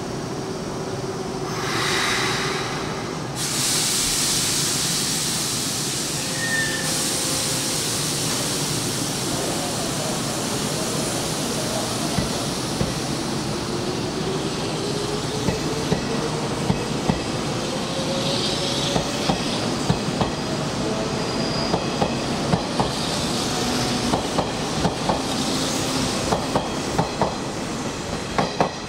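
Hanshin Railway electric train moving through the station, with steady running noise throughout. From about halfway, its motor whine rises slowly in pitch as it gathers speed, and the wheels clack over the rail joints in a regular rhythm.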